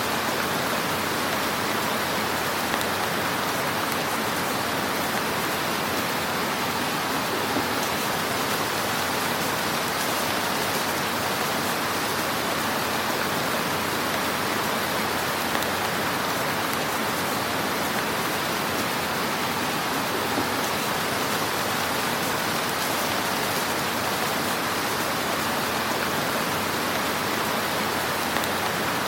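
Wood fire burning in a fireplace: a dense, steady crackle and hiss, with a few slightly louder pops here and there.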